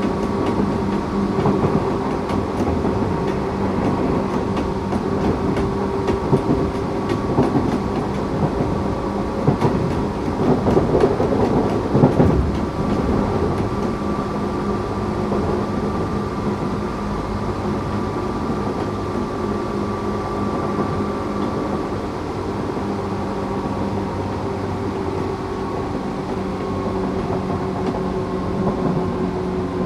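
Tokyu 8500 series electric train with Toyo-made traction motors running at steady speed, a steady motor and gear hum over wheel and rail noise. A run of wheel clacks over rail joints comes between about six and twelve seconds in.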